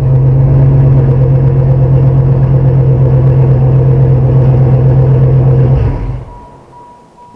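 A stock 1994 Chevrolet Camaro's engine held at a steady raised speed, then cut off about six seconds in. A faint, evenly repeating electronic beep follows.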